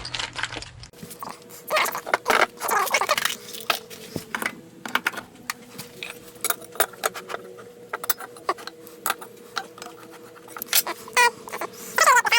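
Small metal tools, likely drill bits, clicking and rattling as they are sorted through, with a faint steady hum. A dog whines briefly a couple of times, about two seconds in and near the end.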